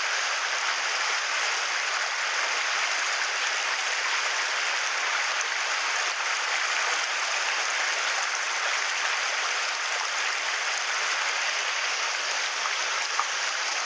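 Shallow mountain stream rushing steadily over and between rocks: a constant, even hiss of running water.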